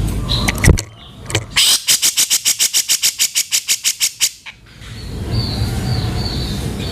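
Cucak jenggot (grey-cheeked bulbul) giving its harsh 'kasaran' rattling call: a few sharp clicks, then a fast run of about twenty rasping notes, some seven a second, lasting nearly three seconds. Faint high thin notes follow near the end over a low background hum.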